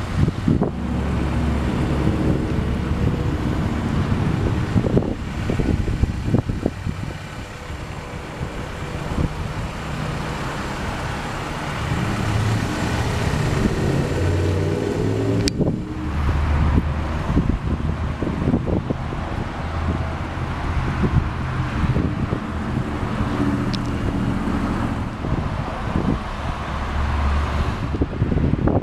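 Motor vehicle engine noise with the rumble rising and falling, mixed with wind on the microphone. There are a few knocks and a sharp click about halfway through.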